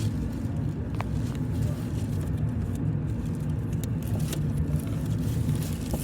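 A car driving: a steady low rumble of engine and road noise, with a faint tick about a second in.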